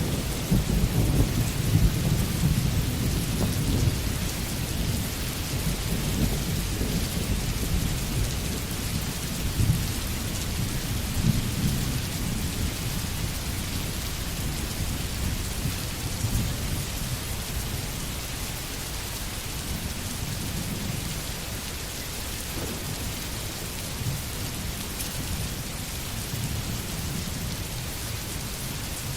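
Steady rain hissing, with a low rolling rumble of thunder that is loudest at the start and slowly dies away.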